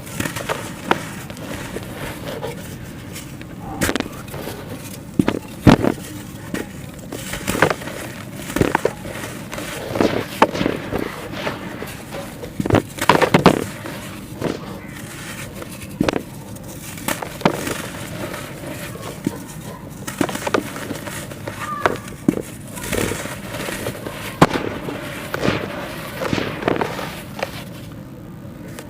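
Sandy clay being crumbled and crushed by hand: irregular crisp crunches and cracks, some in quick clusters, over a steady hiss.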